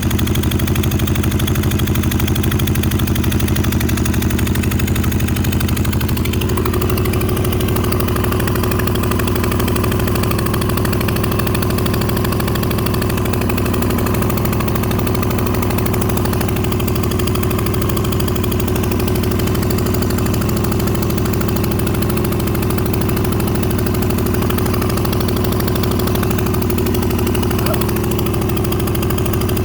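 Motorcycle engine idling steadily, on a bike being checked for a misfiring cylinder. About six and a half seconds in the note shifts slightly and a higher steady whine joins it.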